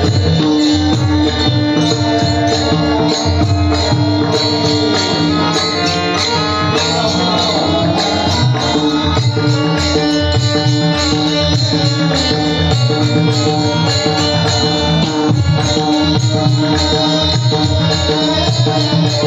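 Devotional bhajan music: a mridang (two-headed barrel drum) played in a fast, steady rhythm over steady held tones, with jingling percussion.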